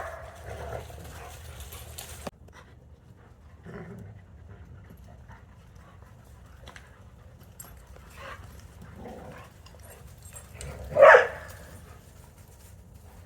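Dogs making sounds, with one short, loud bark about eleven seconds in and fainter dog sounds before it.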